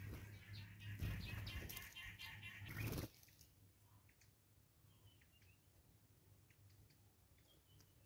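Wild birds calling: a loud, rapid chattering with a noisy rumble underneath for about the first three seconds, which cuts off suddenly, followed by faint, scattered short chirps.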